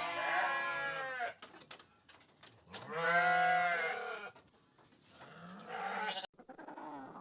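Three long, drawn-out bleats from a farm animal, the middle one the loudest. After an abrupt cut near the end, a softer wavering call begins.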